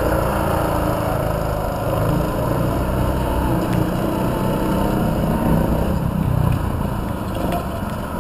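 Mini sprint car engine running steadily on the track, a continuous low engine rumble.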